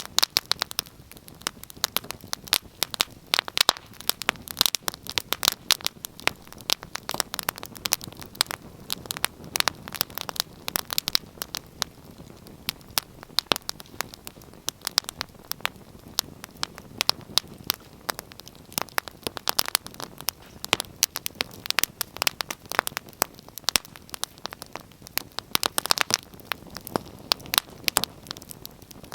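Wood fire burning in a fireplace: dense, irregular crackles and pops over a soft steady hiss.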